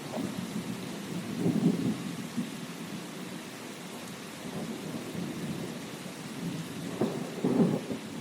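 Steady rain falling, with low rumbles swelling about a second and a half in and again near the end, the second one led in by a sharp crack.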